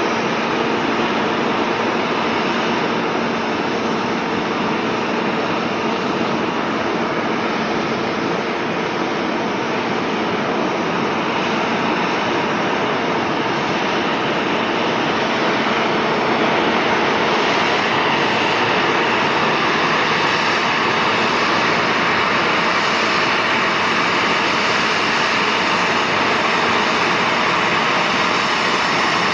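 Jet airliner's engines running with a steady whooshing noise that grows a little louder about halfway through.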